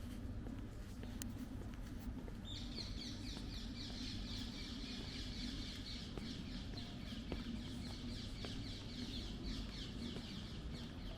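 A bird calling in a rapid, even series of short, high, falling notes. The series starts about two and a half seconds in and keeps going for about eight seconds, over a low steady rumble.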